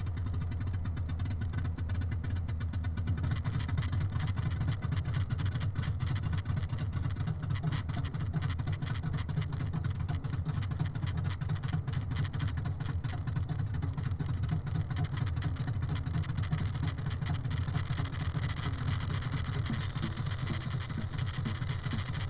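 Big truck's engine running steadily on the move, a low rumble with road noise.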